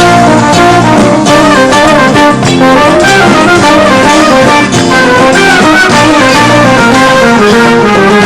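Live band playing an instrumental passage between sung lines of a song: a busy stepping melody over a steady drum beat.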